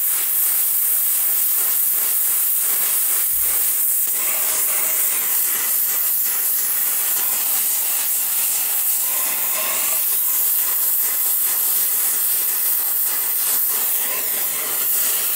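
Gas torch flame hissing steadily as it heats a rusted, seized exhaust manifold stud to free it.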